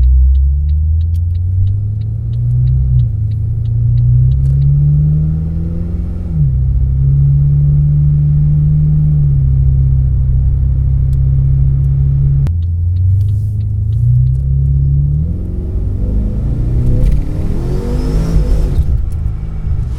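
Pontiac G8 V8 with Pypes long-tube headers and a Violator-muffler axle-back exhaust, accelerating through the gears. The exhaust note climbs in pitch and drops at shifts about 3 and 6 seconds in, then holds a steady pull. After a break a little past halfway it climbs again, finishing with a rougher, louder run.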